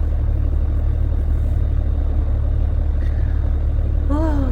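Heavy truck's steady low engine and road drone as heard inside the cab, unchanging throughout.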